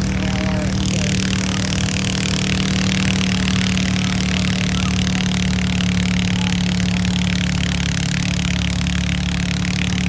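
Engine of a competition puller at a tractor pull, running loud at one steady pitch without a break.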